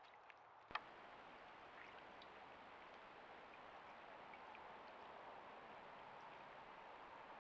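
Faint steady rush of creek water picked up by a trail camera's microphone. A sharp click comes just under a second in, followed by a thin, steady high tone.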